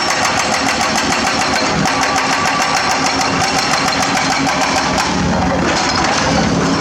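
Diesel engine of heavy construction machinery running steadily at close range, with a fast regular ticking in its note. About five seconds in, the engine note shifts briefly, then settles again.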